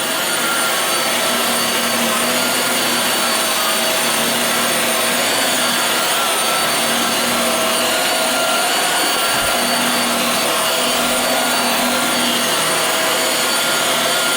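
Hoover WindTunnel Air bagless upright vacuum cleaner running steadily while being pushed over carpet: a constant rushing of air with a steady motor whine.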